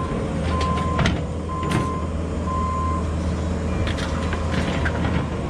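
Heavy equipment's backup alarm beeping about once a second over a steady diesel engine drone, the beeps stopping about three seconds in as the machine finishes backing up; a few metal knocks from the pile.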